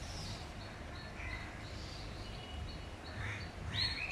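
Small birds chirping in the trees, a short high note repeated about twice a second with a few rising calls, the clearest near the end, over a low outdoor rumble.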